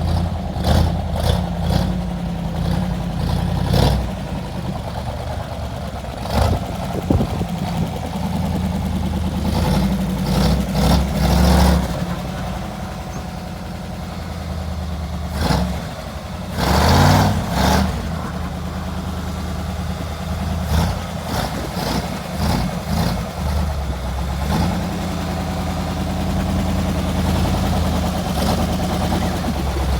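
Vehicle engine idling cold after a cold start, with repeated short throttle blips; the longest rev comes about 17 seconds in.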